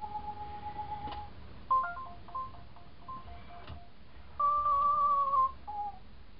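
Sony Aibo ERS-210 robot dog sounding its electronic tone language. First comes a held beep, then a quick run of short beeps hopping between a higher and a lower pitch. The loudest part is a wavering tone held for about a second near the end, followed by a short falling blip.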